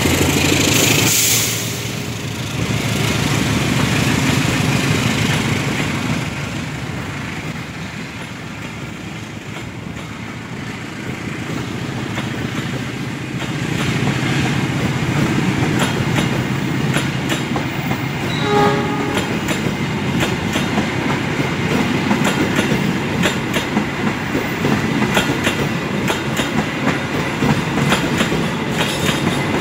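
Passenger train coaches rolling past on steel rails, wheels clacking over the rail joints in a regular rhythm that grows louder and denser in the second half.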